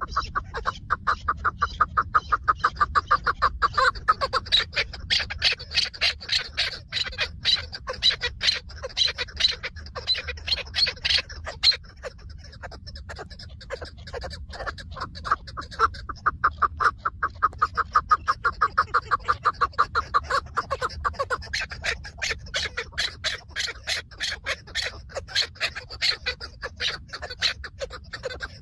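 Chukar partridge calling: long runs of rapid, repeated clucking notes, several a second, with a break of a few seconds near the middle.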